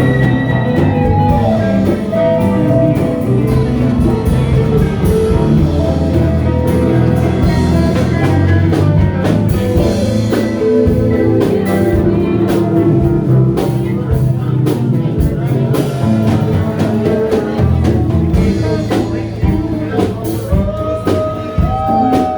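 A live band playing a blues-rock passage, guitar over drums with a steady beat.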